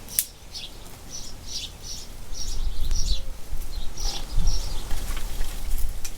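Small birds chirping over and over in short high calls, with a louder low rumble coming in about two seconds in.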